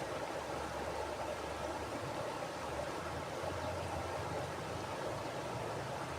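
Mountain river flowing over rocks: a steady rushing of water with a low rumble beneath it.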